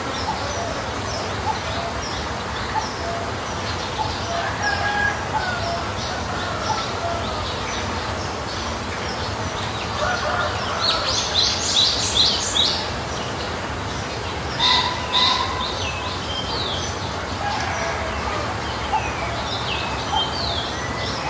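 Birds chirping and calling, with a louder flurry of rapid high calls about eleven to twelve seconds in, over steady low background noise.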